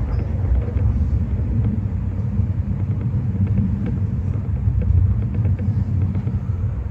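Kintetsu 6020 series electric train heard from inside the driver's cab, running slowly along a station platform: a steady low rumble of wheels and running gear.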